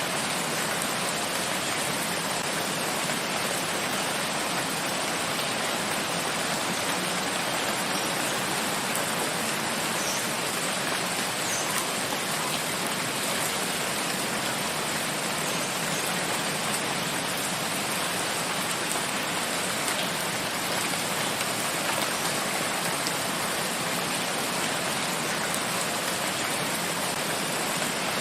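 Steady rain falling in a forest, an even unbroken hiss of rain with no let-up.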